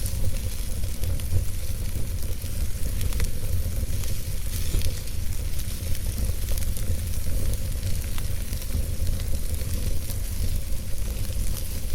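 Campfire crackling, with scattered small pops and snaps over a steady hiss, and a low wind rumble underneath.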